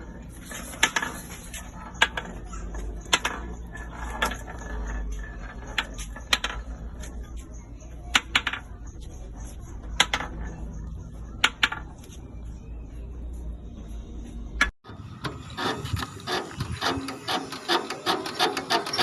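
Scattered sharp knocks and rubbing over a low steady hum. About fifteen seconds in, it cuts abruptly to a Lister Petter engine running with a fast, even clatter.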